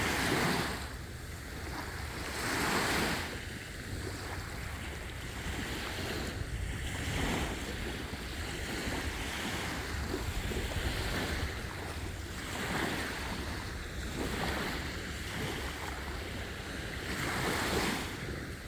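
Sea waves washing onto a beach, the surf rising and falling every couple of seconds, with wind rumbling on the microphone.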